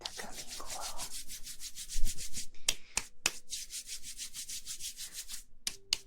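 Quick rubbing strokes close to the microphone, an ASMR massage sound, fast and even at about eight strokes a second. There is one louder bump about two seconds in.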